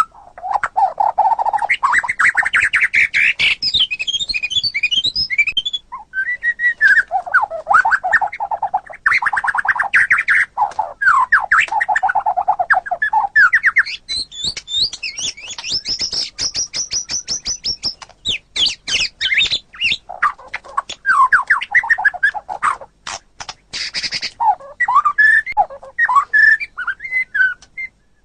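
White-rumped shama singing a long, varied song: rapid trills, rising and falling whistles and harsh chattering phrases following one another with brief pauses.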